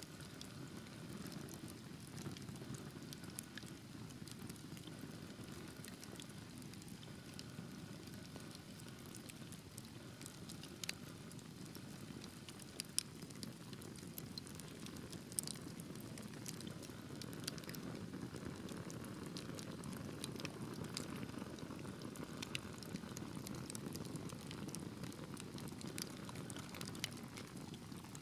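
Wood fire burning in a fireplace: a steady low rumble of flames with scattered sharp crackles and pops, a few louder pops near the middle.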